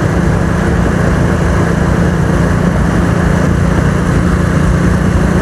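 Hero Splendor motorcycle's single-cylinder four-stroke engine running at a steady cruising pace while riding, with a steady rush of wind and road noise over it.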